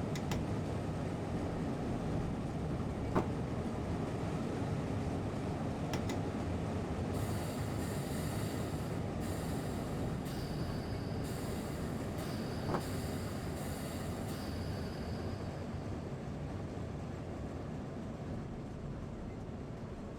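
Train running on the rails, heard from inside the driver's cab: a steady low rumble with a few sharp clicks, and a faint high squeal for several seconds in the middle.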